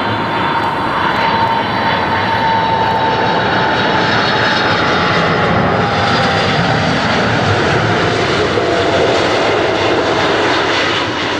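Jet airliner passing close, its engines running loud, with a steady rush and an engine whine that slowly falls in pitch as it goes by.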